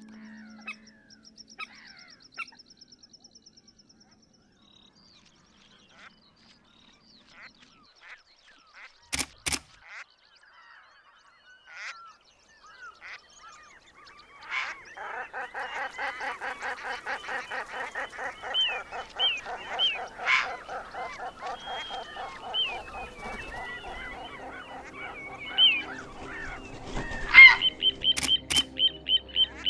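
Waterfowl calling: a fast, dense run of honking calls starts about halfway through and carries on. Before it there are only faint scattered bird chirps and two sharp clicks.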